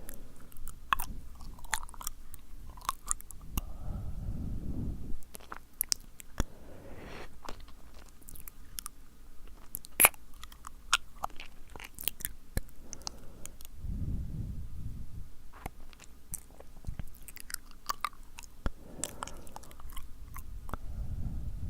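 Close-up ASMR mouth sounds: sticky, wet tongue and lip clicks and smacks in an irregular stream. Three times, a low rush of air rises under them, typical of blowing into the microphone.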